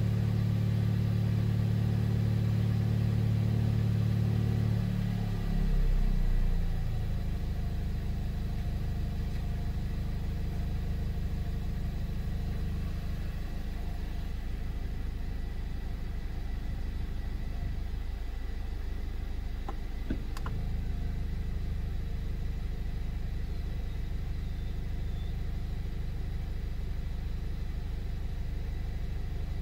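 Audi S3's turbocharged 2.0-litre four-cylinder engine idling steadily to bring the DSG transmission oil up to temperature for a level check. Its note shifts and settles lower and quieter about six seconds in.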